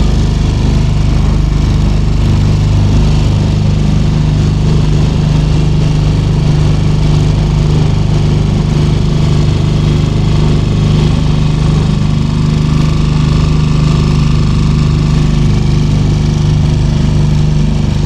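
Small motor boat's engine running at a steady speed: an even, unchanging low hum.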